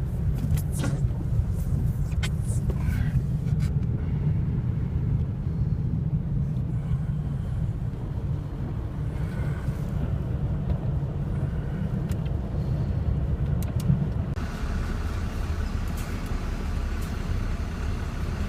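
Vehicle driving, heard from inside the cabin: a steady low rumble of engine and road noise.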